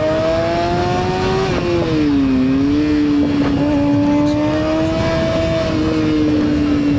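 Suzuki GSX-R750 inline-four engine running at high revs under way, its pitch climbing slowly, dropping and picking back up about a second and a half in, then holding steady, over a steady rush of wind noise.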